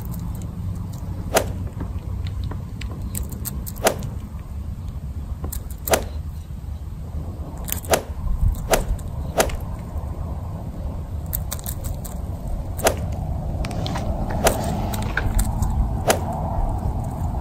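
Outdoor background noise: a steady low rumble with sharp clicks every second or two, coming faster in the last few seconds.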